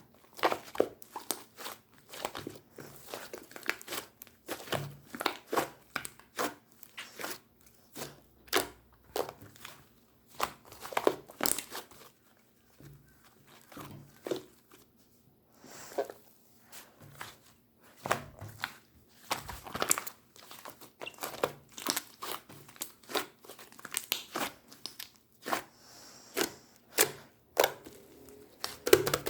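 Slime squeezed and pressed by hand, giving quick sticky crackles and clicks in irregular bursts with a few short pauses.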